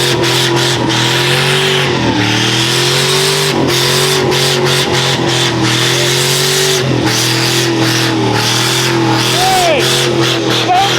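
A vehicle doing a burnout: the engine is held at steady high revs while the tyres spin and squeal, with sharp squeal chirps near the end.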